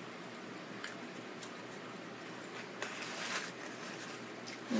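Close-up chewing of a crisp fried tostada: faint crunches and mouth sounds, with a louder crackly crunch about three seconds in.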